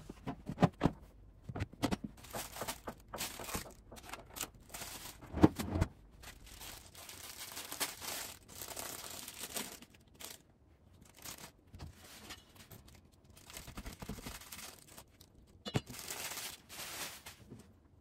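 Plastic bags and wrap crinkling, rustling and tearing while food is packed for storage. A string of sharp knocks and clicks comes in the first few seconds, the loudest about five seconds in, followed by longer spells of rustling.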